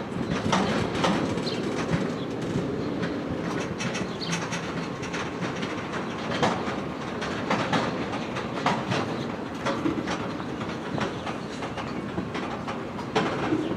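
Freight train cars rolling past, their wheels clicking and clacking over the rail joints in a steady, irregular stream.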